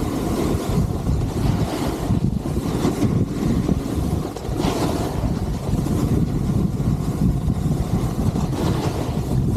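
Wind rushing over the microphone of a skier moving downhill, with skis hissing over the snow in swells every couple of seconds as he turns.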